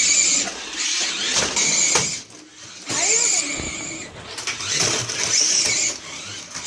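Toy radio-controlled cars' small electric motors whining in repeated bursts as they are driven on and off, with a few sharp knocks.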